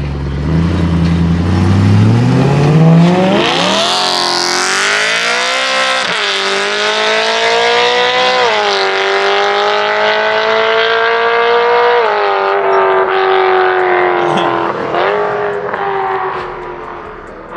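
Single-turbo BMW M3 CS engine accelerating hard, its note climbing for about four seconds, then shifting through several gears as it pulls away, with a short rev blip on a downshift near the end.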